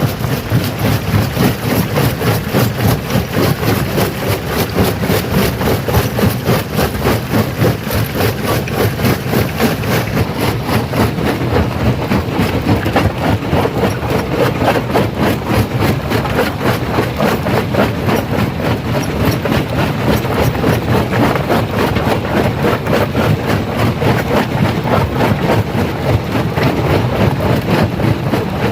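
Stone crusher running under load, crushing rock: a steady heavy machine rumble with a dense, continuous clatter and crackle of stones breaking.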